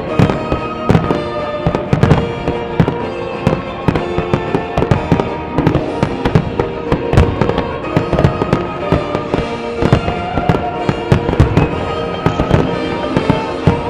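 Aerial firework shells bursting in a dense, irregular barrage of sharp bangs, several a second. Music with held notes plays along with the display.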